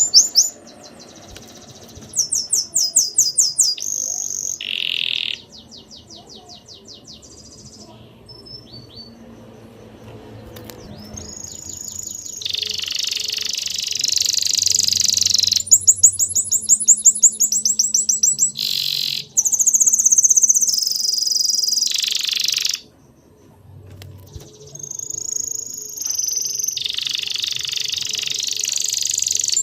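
Small songbirds chirping and trilling: fast runs of high repeated notes alternating with stretches of dense, overlapping chatter, each starting and stopping abruptly.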